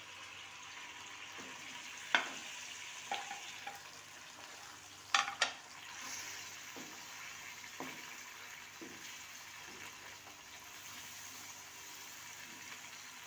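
Chicken pieces and gravy sizzling in a wok while being stirred with a wooden spoon: a steady frying hiss with a few sharp knocks. The loudest is a quick double knock about five seconds in.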